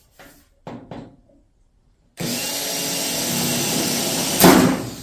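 Power drill boring a hole through the sheet-metal bedside patch panel, starting a little past two seconds in after a few light knocks. Near the end a sharp crack: the drill bit breaking.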